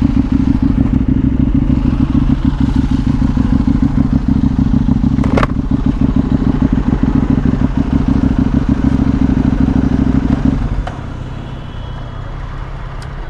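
Superbike engine running steadily at low revs, then the engine note suddenly drops away about ten and a half seconds in, leaving a quieter rumble.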